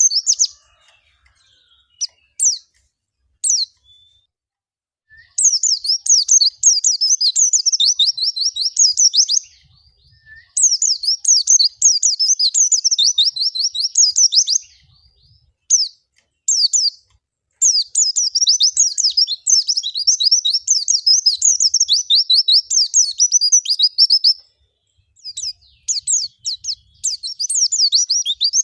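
Pleci (white-eye) in full, vigorous song: long, fast, high twittering phrases lasting several seconds each, broken by short pauses with a few single chirps in between.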